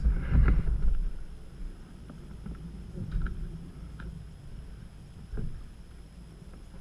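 Canoe being paddled on a creek: low rumble of moving water and air on a GoPro's microphone, loudest in the first second, with a few light knocks about three, four and five seconds in.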